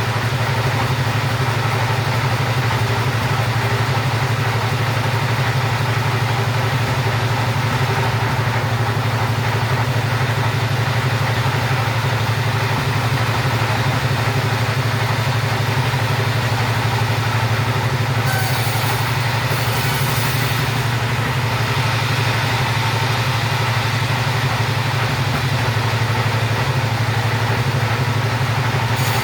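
Chainsaw engine running steadily at a constant pitch, with no revving or pauses.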